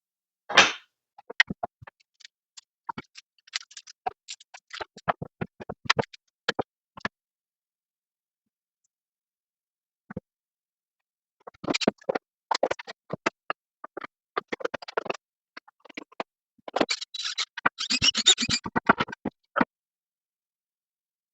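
Scattered short clicks and scratchy scraping sounds in uneven clusters, with silent gaps, busiest near the end; no power tool is running.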